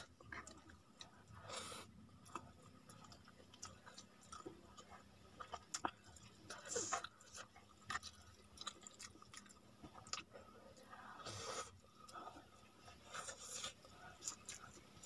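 Faint chewing and wet mouth clicks of a person eating cooked rice by hand, with irregular short clicks and soft smacks scattered through.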